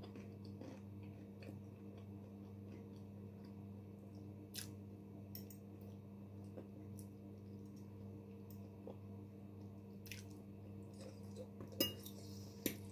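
A person eating: soft chewing with a few short, sharp clicks scattered through, the loudest near the end. A steady low hum runs underneath.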